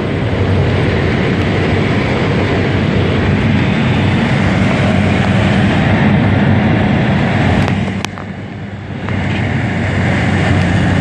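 Steady, loud noise of a private jet's engines and rushing air, with a low hum underneath; the level drops briefly about eight seconds in and then picks up again.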